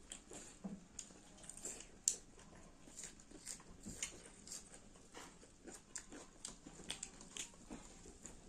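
Close-miked chewing, with wet mouth clicks and lip smacks as chicken is eaten: many short irregular clicks, a few a second.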